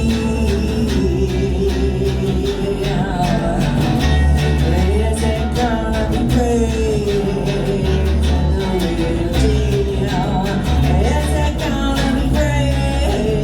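Live band playing a song: pulsing bass and drums under a wavering, sliding melody line.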